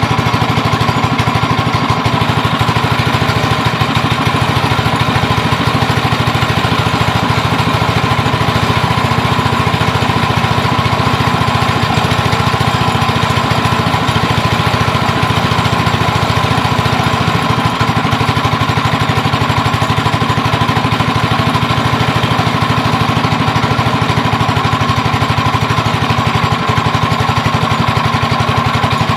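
Go-kart's Ghost engine, a small single-cylinder four-stroke, running steadily at one speed with an even stream of firing pulses.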